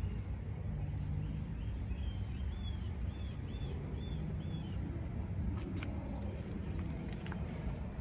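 A HMMWV's diesel engine idling steadily. A bird gives a run of about seven short chirps over it, starting about two seconds in, and a few sharp clicks come near the end.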